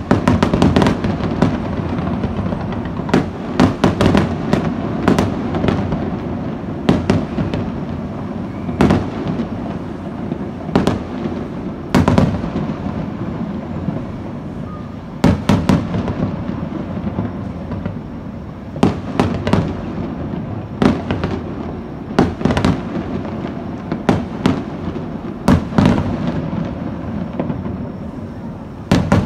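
Aerial firework shells bursting: about two dozen sharp booms at irregular intervals, some in quick pairs, over a continuous low din of further bangs and their echoes.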